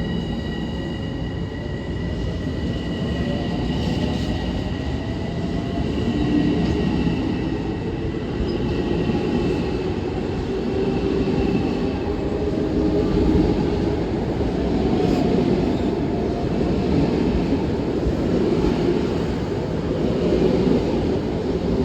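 Long Island Rail Road train running along the tracks: a loud, steady rumble of wheels on rails. Several high, steady whining tones sound over the rumble in the first half and fade out about halfway through.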